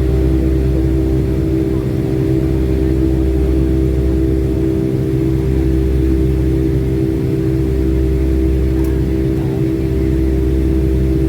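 Boeing 757-200 jet engines heard from inside the passenger cabin: a steady loud drone with a few even, held tones over a deep hum.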